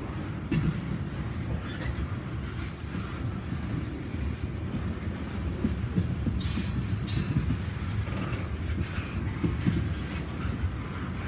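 Freight train cars rolling past with a steady rumble and clatter of wheels on the rails, and a brief high-pitched wheel squeal about two-thirds of the way through.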